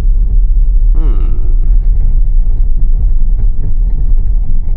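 Low, steady rumble of an electric Tesla's tyres and road noise while driving on a snowy road, with no engine note.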